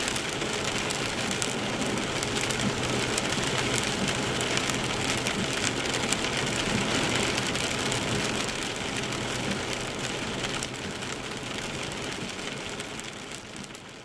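Rain hitting a moving Porsche Boxster, heard from inside the car, over a steady low drone of engine and road. The sound fades down over the last few seconds.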